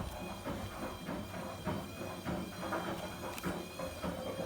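Bosch Series 2 washing machine stuck on its spin cycle with bottles in the drum: a steady motor hum under irregular knocking as the load tumbles, which the owner calls a spin failure.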